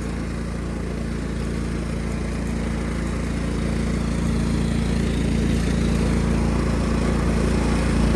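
1999 Cub Cadet HDS 2135 riding mower's engine running steadily under way, a low, even hum that slowly grows louder.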